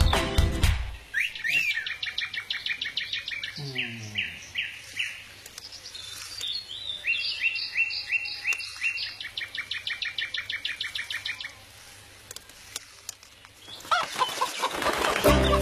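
Small bird chirping: quick runs of high, evenly repeated notes in two bouts, stopping about three-quarters of the way through.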